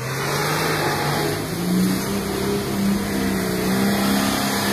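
Toyota Land Cruiser 60 series turbo diesel engine revving up over about two seconds, then holding steady revs under load.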